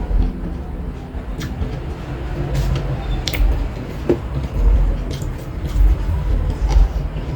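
Close-miked eating: chewing and crunching with scattered sharp clicks, over a steady low rumble.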